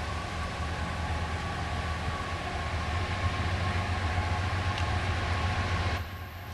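Diesel-hauled train approaching: a steady low engine hum under a broad rush of wheel and track noise, slowly growing louder. The sound drops off abruptly near the end.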